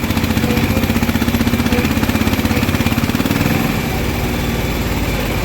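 Heavy diesel engine running with a fast, even pulsing beat that smooths out about three and a half seconds in.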